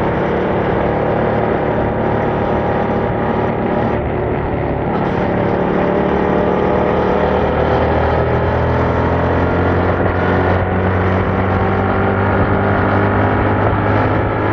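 Yamaha MT-07's 689 cc parallel-twin engine running through its stock exhaust under way. The engine note changes about five seconds in, then climbs slowly and steadily as the bike gathers speed.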